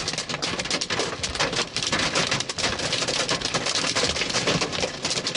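Heavy hail pelting down with rain, a dense, continuous clatter of hard impacts. The person filming calls it big hail.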